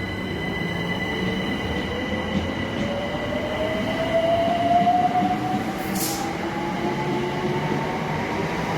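Southeastern Class 376 electric multiple unit pulling away from the platform, its traction motors whining in a smoothly rising pitch as it accelerates. A short hiss comes about six seconds in.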